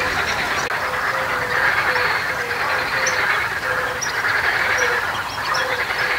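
A large flock of waterfowl calling: a continuous din of overlapping calls, with a short low honk repeating two or three times a second and a few higher chirps.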